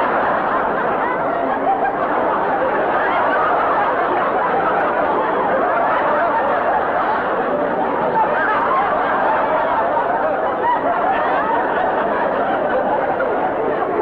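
Studio audience laughing steadily, many voices overlapping in continuous laughter.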